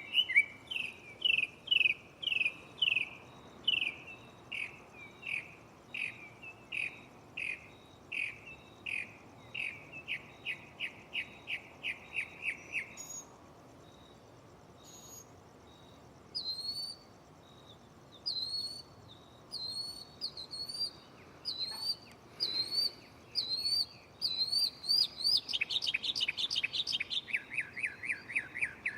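Northern mockingbird singing, repeating each phrase several times before switching: a long run of down-slurred notes that speeds up, a pause of a few seconds, then a series of higher rising notes about one a second, a quick trill, and fast lower notes near the end.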